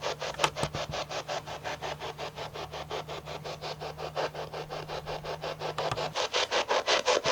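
Spirit box sweeping through radio stations: choppy bursts of static at about five a second. A low steady hum under it stops about six seconds in.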